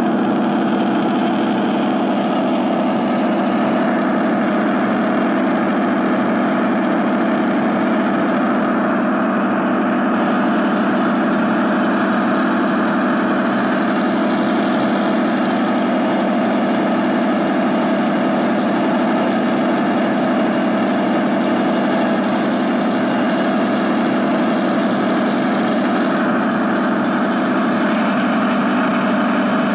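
A motor or engine running steadily at constant speed, with a continuous even hum.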